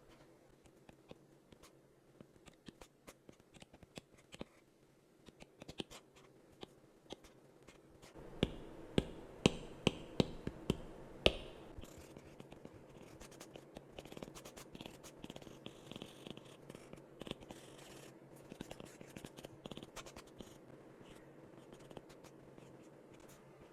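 A pen scratching and tapping while drawing: light ticks and scratches, a run of about seven sharp taps over some three seconds about a third of the way in, then several seconds of scratchy strokes.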